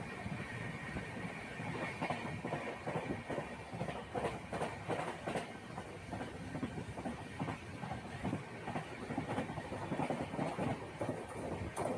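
Steady rumbling and rattling of a moving vehicle, with many small knocks and clatters throughout.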